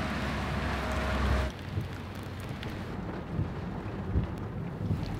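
Rain falling with a low rumble of wind on the microphone. For the first second and a half a distant bass boat's outboard motor runs with a steady whine over it, then the sound drops suddenly to quieter rain.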